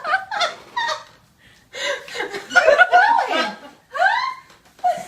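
Laughter: runs of chuckling bursts, with a short pause about a second and a half in.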